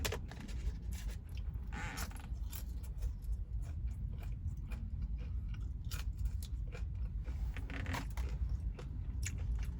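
A person chewing crispy bacon, with scattered short crunches and clicks over a steady low rumble.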